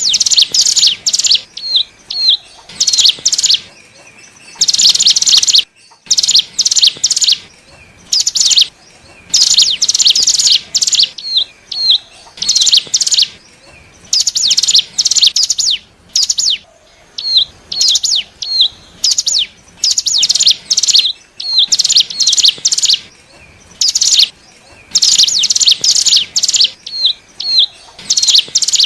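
Ciblek gunung (cigun), a prinia, singing loudly in repeated bursts of rapid, buzzy chattering notes, with short upswept chips between some bursts. This is a lure recording used to draw in wild birds of the same kind.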